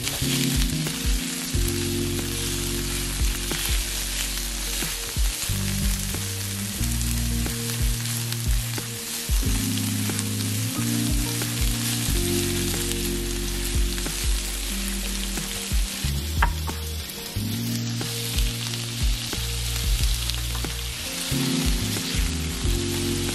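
Plant-based veggie chicken strips and green peppers sizzling steadily in hot avocado oil in a nonstick frying pan, turned now and then with a silicone spatula.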